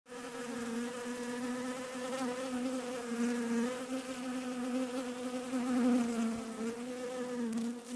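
Honeybees buzzing: a steady hum with a stack of overtones, its pitch wavering slightly.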